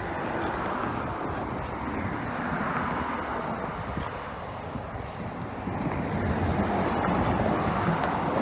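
Traffic passing on a nearby road: a rushing tyre-and-engine noise that swells and eases as vehicles go by.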